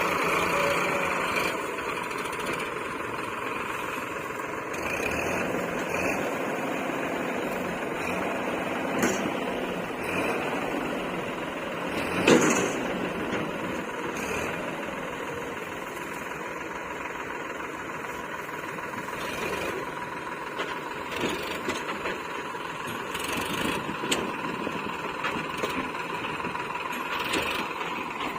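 Diesel engines of earth-moving machinery running steadily while mud is loaded, with one loud clank about twelve seconds in and a few lighter knocks.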